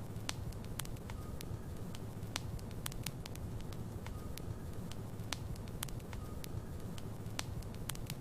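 Logs burning in a fireplace: a steady low rumble of the fire with frequent sharp crackles and pops at irregular intervals.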